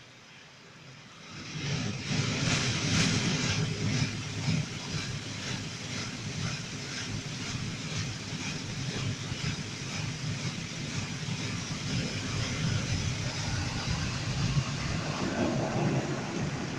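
Automatic brush car wash working over the car, heard from inside the cabin: a steady rush of spraying water and brushes on the bodywork that starts suddenly about a second and a half in.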